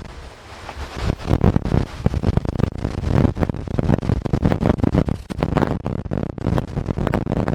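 Gusty storm wind buffeting the microphone, a dense rumble with irregular thumps and swells.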